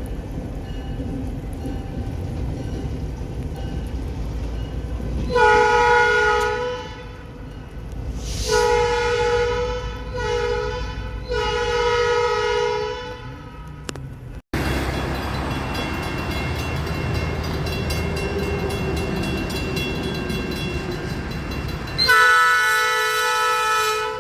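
Diesel locomotive horn sounding the grade-crossing pattern (long, long, short, long) over the low rumble of the train, followed after a cut by more steady rumble and another horn blast near the end.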